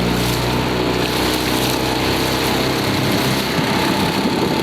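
Motorboat engine running, its hum slowing and dropping in pitch, then fading into a rougher low rumble a little past halfway, over a steady rushing noise.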